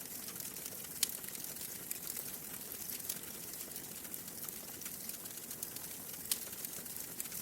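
Wood fire crackling steadily in a fireplace, with a hiss under many small snaps and a few sharper pops, the loudest about a second in and just past six seconds.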